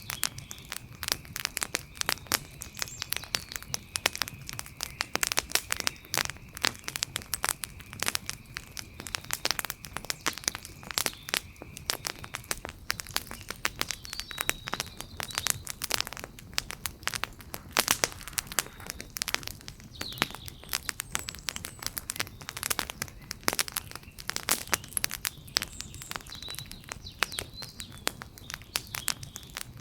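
Wood fire crackling, with dense irregular pops and snaps over a low hiss. A faint steady high tone sounds for roughly the first twelve seconds, and a few faint chirps come later.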